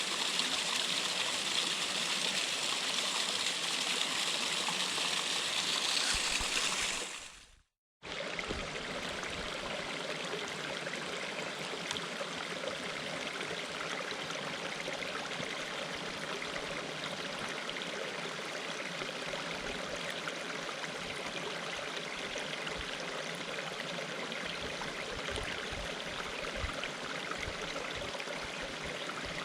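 Water rushing down a cascade in a steady hiss. It fades out about seven seconds in, falls silent for a moment, then a second stretch of cascading water starts, slightly quieter and less bright.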